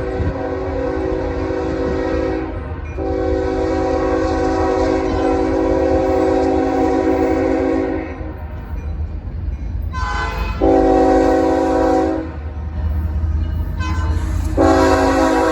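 Diesel locomotive's multi-chime air horn sounding over the low rumble of the passing train: two long blasts, a shorter one, then another long one starting near the end, the long-long-short-long pattern blown for a grade crossing.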